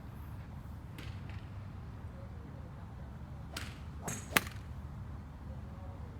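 Golf club striking a ball: one sharp, loud crack a little past four seconds in, with fainter clicks and a swish just before it, over a steady low rumble.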